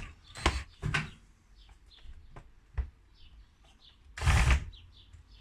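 Clicks and knocks of the chainsaw's plastic housing and cover being handled and fitted back on, with a louder scraping rush about four seconds in.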